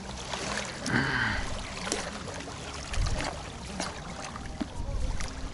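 Motor of a passing pleasure boat running steadily on the water, under wind buffeting the microphone in gusts.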